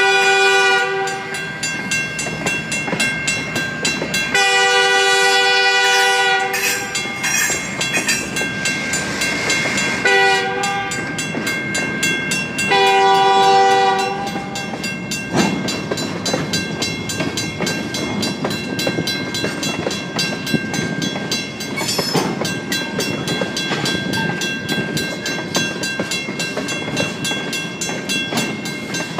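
Diesel freight locomotive horn sounding the grade-crossing pattern, long, long, short, long: the first blast ends about a second in and the last ends about 14 seconds in. Under it, loaded tank cars rumble and clatter over the crossing the whole time, and the crossing signal's mechanical bell rings steadily.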